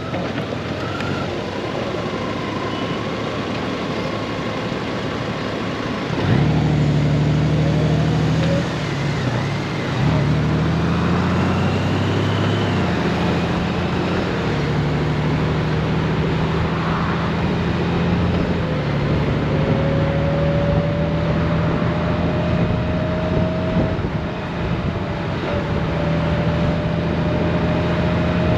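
Honda Gold Wing motorcycle riding at road speed: the engine runs under a steady rush of road noise. About six seconds in, the engine note comes up louder and stronger, and its pitch changes again a few seconds later.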